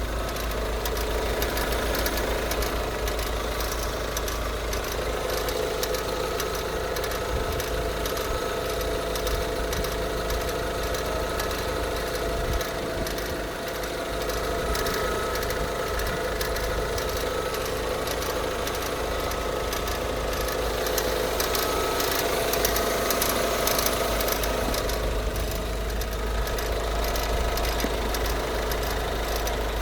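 Opel X20XEV 2.0-litre 16-valve four-cylinder engine running steadily, with a fast, even ticking or knocking over it: the extraneous noise that the owner is trying to pin down.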